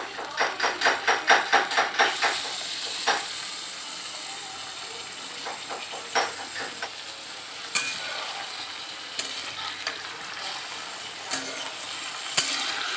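Chicken pieces sizzling in hot oil in an aluminium kadai. For the first two seconds a spatula scrapes and knocks against the pan in quick strokes, about five a second. After that the frying hiss is steady, with a few single taps on the pan.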